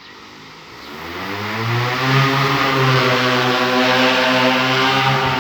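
Crop-spraying drone's propellers spinning up on start-up: a hum that rises in pitch and loudness over about two seconds, then holds steady at a loud, even pitch.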